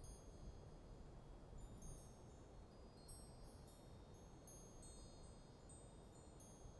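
Wind chimes tinkling faintly in a light breeze: high, clear notes struck irregularly and ringing on, over a soft low rush of wind.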